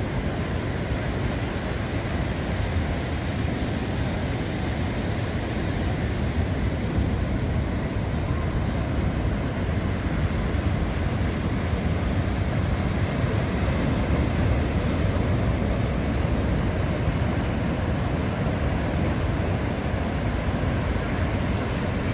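Steady low rumbling noise with no breaks or distinct events.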